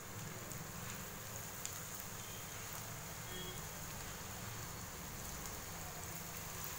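Masala-coated bitter gourd slices deep-frying in hot oil: a steady sizzle with a few small pops, as more slices are dropped into the pan.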